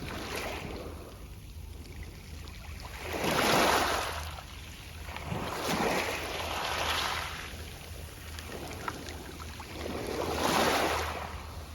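Small Mediterranean waves washing onto a pebble beach, the pebbles rustling as the water runs up and draws back. The wash swells three times, about every three to four seconds.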